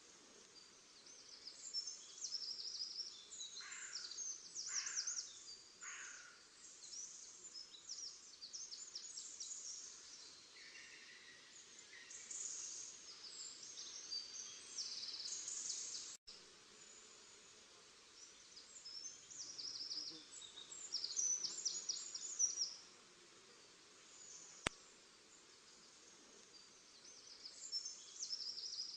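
Several small songbirds singing and calling in quick high chirps and trills, with a few lower calls about four to six seconds in; the sound cuts out for an instant about sixteen seconds in.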